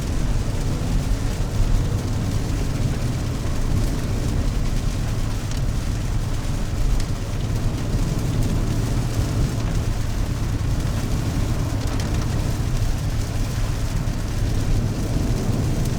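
Steady low rumble of a 4x4 being driven, heard from inside the cabin: engine and tyre noise on a rain-wet road.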